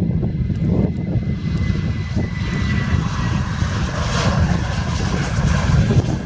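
Jet airliner's engines at take-off power: a deep, steady rumble with a rushing hiss that swells from about halfway through.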